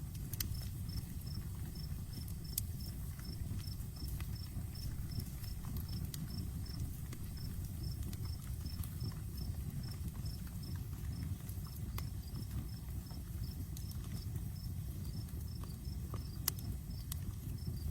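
Outdoor campfire burning with a low steady rumble and scattered sharp crackles and pops, a handful of them louder than the rest. A cricket chirps steadily in the background, about three chirps a second.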